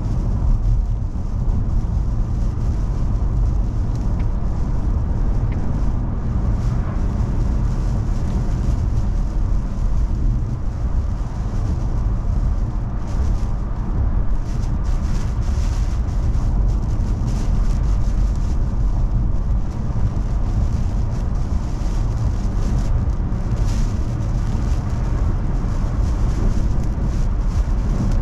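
Steady low rumble of a car driving, heard from inside the cabin, with brief hisses now and then.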